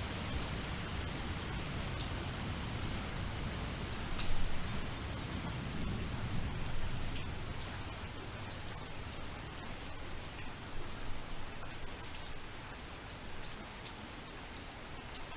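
Steady rain with scattered drops tapping on a surface. A low rumble sits under it for about the first half and then fades.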